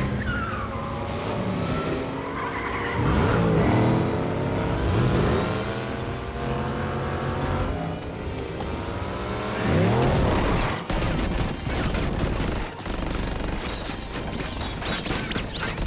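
Car chase in a film sound mix: the Batmobile and other cars revving hard, engine pitch climbing through the gears, with loud passing sweeps about three seconds and ten seconds in, over a hiss of road spray.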